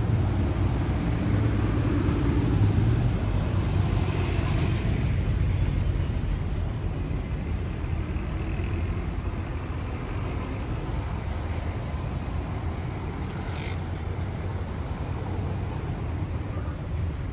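Street traffic: a motor vehicle's low rumble, louder for the first few seconds and then fading into steady city background noise.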